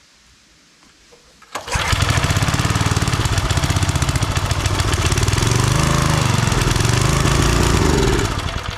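Old 5 hp Briggs & Stratton single-cylinder engine on a homemade wood splitter catching about a second and a half in, running for about six seconds with its speed wavering, then winding down and dying near the end. It will only run on choke, which the owner takes to mean the carburettor probably needs a cleaning.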